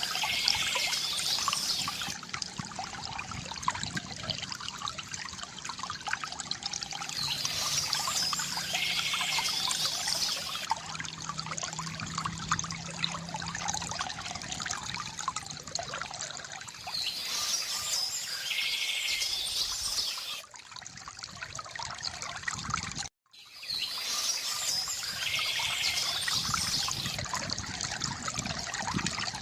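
Water trickling and pouring steadily from a bamboo fountain spout, with the same burst of bird song about every seven to eight seconds. The sound cuts out for a split second about three-quarters of the way through.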